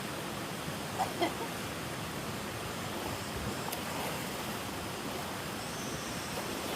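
Steady rush of falling water from a waterfall, with two short calls about a second in.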